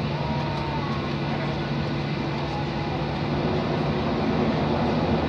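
Boeing 737-800's CFM56 jet engines running, heard from inside the passenger cabin as a steady drone with whining tones. It grows louder about four seconds in.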